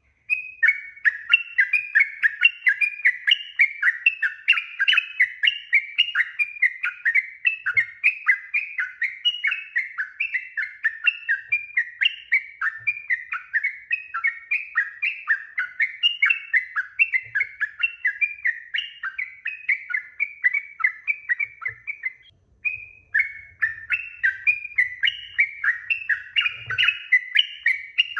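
Yellow-vented bulbul (trucuk) singing a long, rapid, unbroken run of short chattering notes, broken by one brief pause about 22 seconds in.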